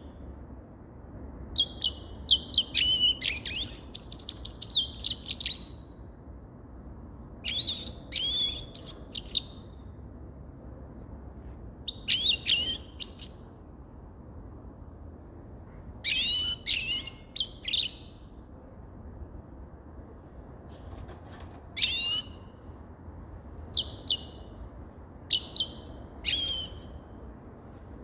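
Grey-crowned goldfinch singing: phrases of quick, high twittering notes a second or several seconds long, spaced a few seconds apart, with shorter single calls near the end.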